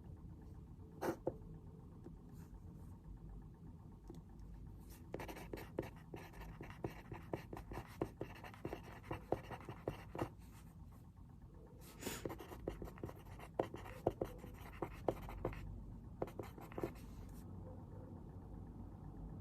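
Pen or pencil writing on paper at a desk, in two stretches of quick scratching strokes with a short pause between, over a steady low room hum. A single tap about a second in.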